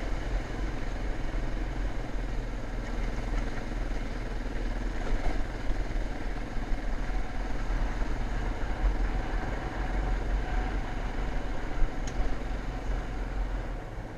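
Motocross bike engine running while riding, heard with heavy low wind rumble on an action camera's microphone. A single sharp knock about twelve seconds in.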